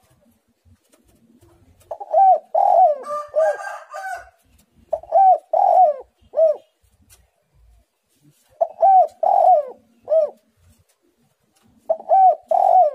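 Spotted dove (tekukur) cooing: four bouts of loud, arching coos, mostly three notes each, separated by short pauses. A higher chirping sound overlaps the first bout.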